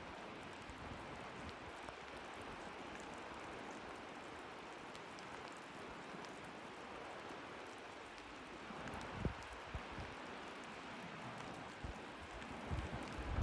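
Rain falling steadily, an even hiss, with a few low thumps about nine seconds in and again near the end.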